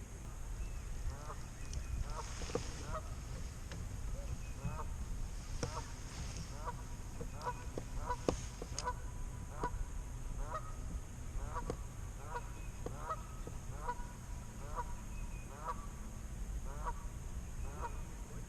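Geese honking: short calls repeated roughly once or twice a second at uneven spacing, over a low steady wind rumble.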